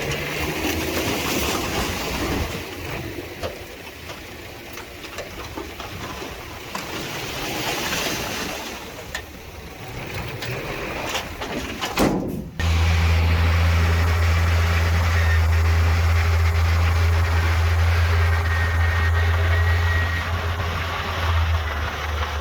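Heavy earthmoving machinery at work: a diesel engine running under uneven mechanical noise, then, about halfway through, an abrupt change to a loud, steady, low diesel engine drone.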